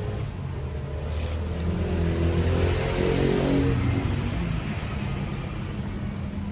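Motor vehicle engine running steadily and growing louder as it passes, its pitch dropping about three to four seconds in.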